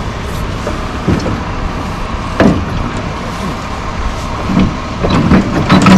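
Tractor engine running steadily, with a few short knocks, one about two and a half seconds in and more near the end.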